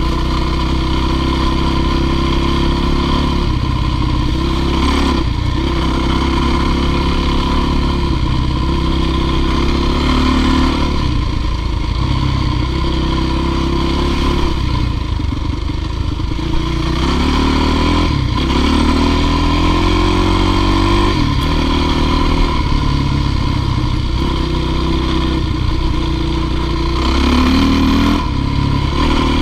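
Dirt bike engine running under load, revving up and down repeatedly as the throttle changes, with a few rising revs in the second half.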